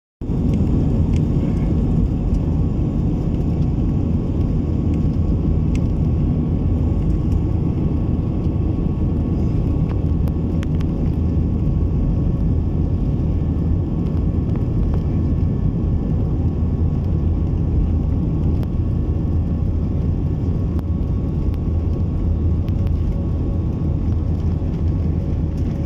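Steady low rumble of a running vehicle, unbroken throughout, with a faint steady hum riding on top.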